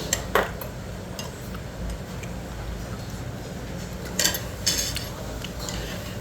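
Utensils clinking against dishes while eating from bowls: a sharp clink just after the start and a few more about four seconds in, over a steady low room hum.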